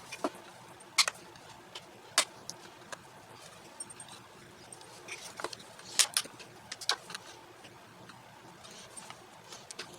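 Scattered sharp clicks and taps of small parts being handled as a headlight motor is worked loose and taken apart, with the loudest knocks about a second in, two seconds in and around six to seven seconds in.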